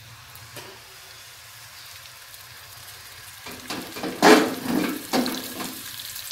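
Ground spice paste sizzling gently in hot oil in a granite-coated wok. From about three and a half seconds in, the wok is shifted on the stove, with a few knocks and scrapes and a brighter sizzle.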